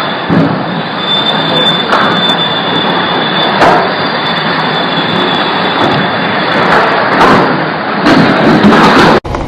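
Loud, steady roar of storm wind with sharp crackles all through it and a thin, steady high whine over most of it; it cuts off abruptly near the end.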